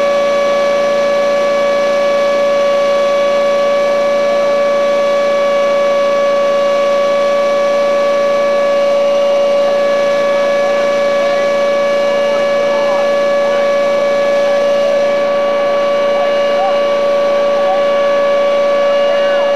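Small engine running at a steady high speed with a constant whine, its pitch dropping near the end as it is throttled back.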